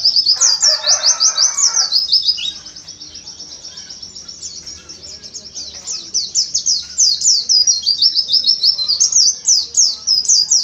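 White-eye (pleci) singing fast, high-pitched runs of sharp chirping notes in its rapid-fire 'tembakan' style. The song is loud at first, softer from about two and a half seconds in, and loud again from about six seconds on.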